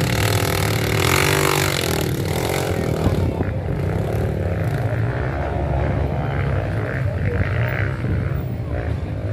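Dirt bike engines revving, the pitch rising and falling, over a steady low engine drone.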